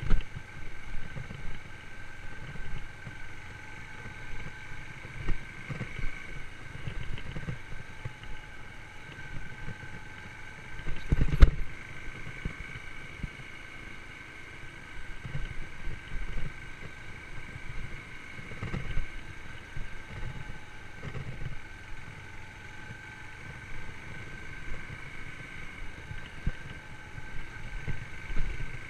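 Yamaha YBR125's single-cylinder four-stroke engine running at fairly steady revs while the motorcycle rides over rough ground, with irregular thumps and rattles from bumps. One hard knock comes about eleven seconds in.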